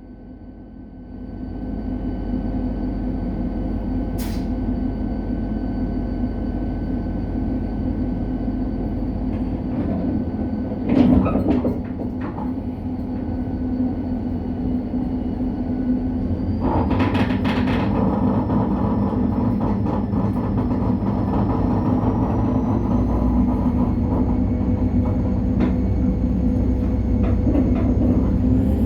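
Large Korail diesel locomotive No. 7351's engine running steadily under load, its sound swelling about a second in and again past the halfway mark. A thin high whine slowly rises in pitch in the second half, and there is a brief clank about eleven seconds in.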